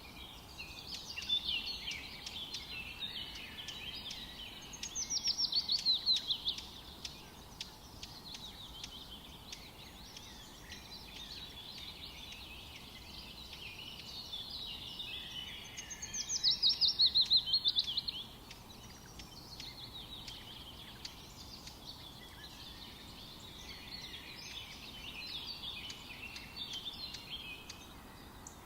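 Songbirds singing in a forest, with continual overlapping chirps and twitters. Twice, about five and sixteen seconds in, one bird gives a louder rapid trill of notes that fall in pitch.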